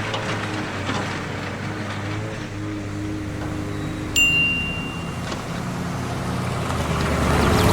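Small electric motors of RC toy vehicles running steadily with a low whir. About four seconds in, a single high electronic beep sounds and holds for about a second.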